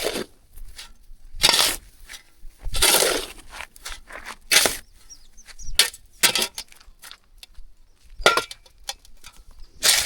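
A series of short scrapes and knocks, roughly one every one to two seconds, with a longer scrape about three seconds in.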